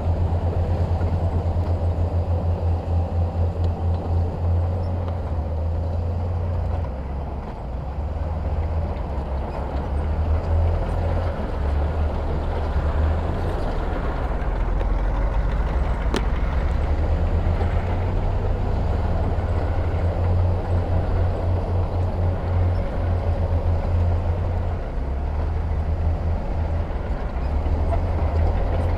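Heavy diesel engine of earthmoving machinery running under load, a deep pulsing rumble that rises and falls, with one sharp tick about halfway through.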